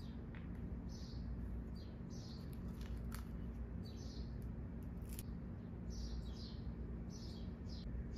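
Small birds chirping: short, high, falling chirps repeating about once a second over a steady low hum, with a few faint clicks.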